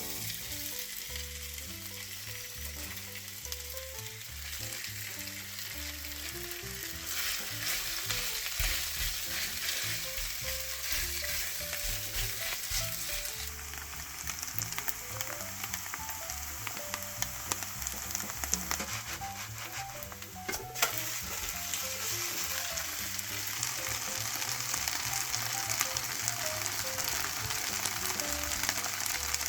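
Zucchini-chive pancake batter frying in oil in a pan: steady sizzling and crackling, which grows louder about seven seconds in.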